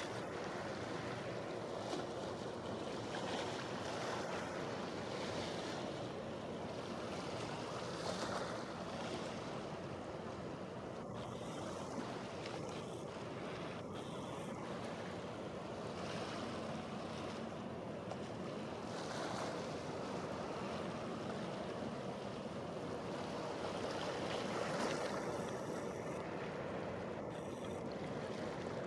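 Steady wash of sea waves with wind noise on the microphone.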